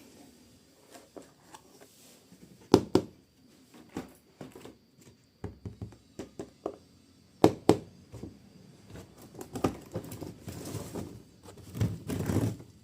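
Hands unpacking a model train set: sharp knocks and clicks of parts and packaging being handled, two loud pairs of knocks about 3 and 7.5 seconds in, with crinkling and rustling of packaging between them and more near the end.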